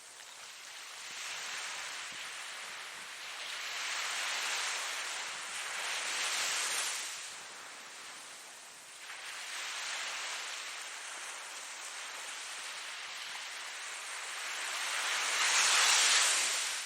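Ocean waves breaking and washing on the shore in a steady hiss. It swells in slow surges, with the loudest wave cresting near the end.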